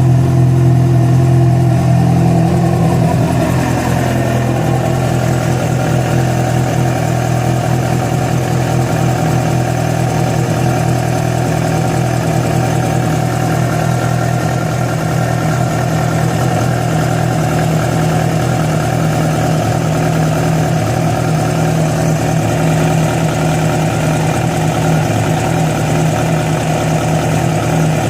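Yamaha FZ6 inline-four engine idling, its revs settling a little about three seconds in and then holding steady. This is the strange engine noise that appeared after the bike was ridden about 70 km on two cylinders with a failed ignition coil connector.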